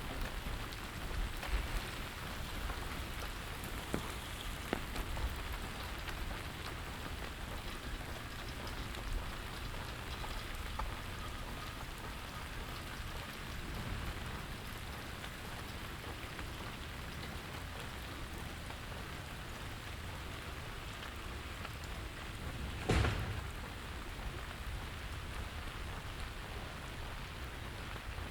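Steady rain falling, an even hiss of drops on surfaces, with a few sharp taps in the first several seconds. One louder single thump comes about three-quarters of the way through.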